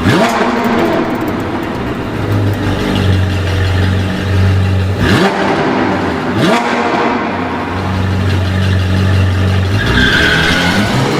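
A car engine revving: its pitch sweeps sharply upward several times, about five and six and a half seconds in, and settles into a steady loud drone between sweeps.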